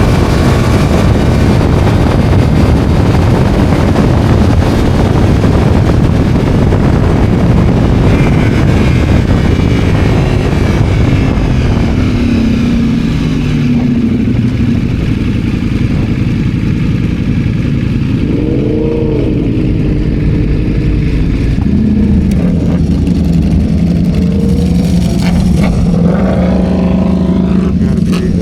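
Motorcycle engine heard from the rider's seat, first running hard at speed under heavy wind rush, then easing off as the bike slows. The engine pitch rises and falls briefly about two-thirds of the way through, then settles into a steady low idle-like note near the end.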